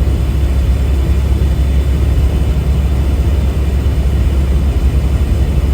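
Semi truck's engine and road noise droning steadily inside the cab, heavy and low.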